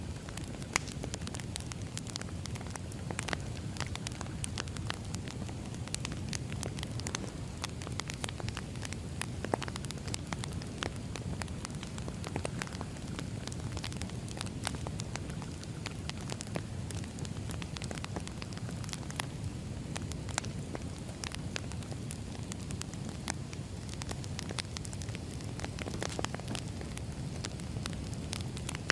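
Firewood burning in a fire, with frequent sharp crackles and pops over a steady low rush of the flames. Two pops stand out louder, about a second in and near ten seconds.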